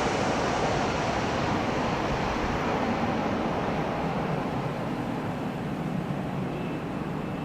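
Jet airliner's engine noise, loud at first and then slowly fading, the higher part of the sound dropping away first.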